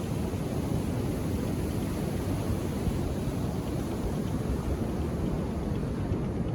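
Ocean surf on a beach: a steady, low rumbling wash of waves, with no single break standing out.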